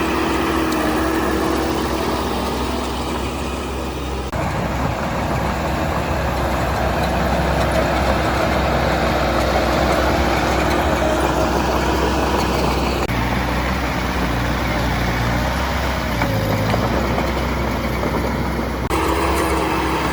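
Heavy diesel construction machinery running steadily. The sound changes abruptly three times, about four, thirteen and nineteen seconds in.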